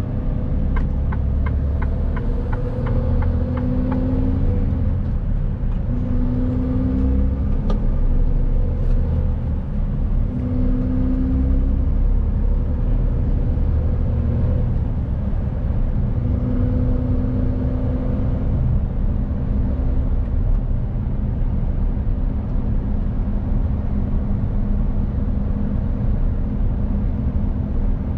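Mercedes-Benz Actros truck's diesel engine running on the move, a steady low rumble whose pitch rises and falls as it pulls and eases off. A short run of regular ticks sounds in the first few seconds.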